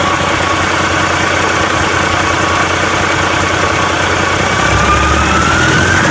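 2011 Detroit Diesel DD15 inline-six diesel engine running steadily at idle, then starting to rev up about four and a half seconds in, with a whine that rises in pitch. The engine is described as good running.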